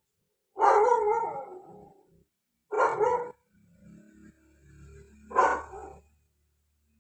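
Three loud animal calls, each under a second long and spaced about two seconds apart; the first trails off longest.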